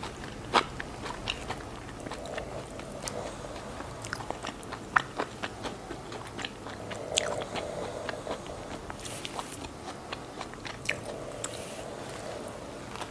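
Close-up mouth sounds of chewing and biting into fresh Vietnamese spring rolls filled with lettuce and shrimp: irregular crisp clicks and crunches, the sharpest about five seconds in.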